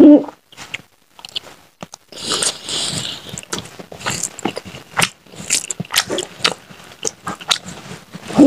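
Close-miked eating by hand: wet chewing and lip smacking on a mouthful of rice and curry, with many sharp clicks and squelches, and fingers squishing rice on the plate from about two seconds in. A short hum of the voice comes right at the start and again at the end.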